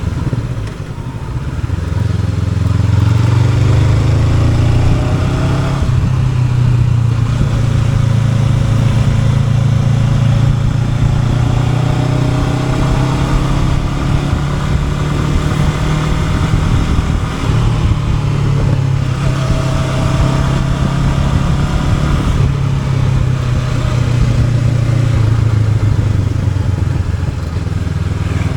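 Honda NX500's parallel-twin engine running while the bike is ridden, its revs rising and falling with the throttle. The engine sound dips briefly about a second in, again around the middle, and near the end.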